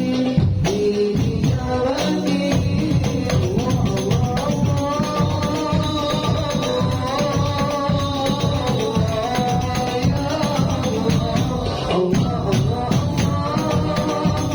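Hadrah ensemble performing a sholawat (Islamic devotional song): a fast, steady beat on rebana frame drums with jingles under a sung melody.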